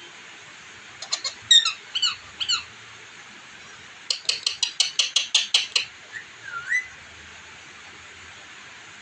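Parrot calling: a few short chirps, then a quick run of about a dozen sharp chirps at roughly six a second, ending in a whistle that dips and rises again.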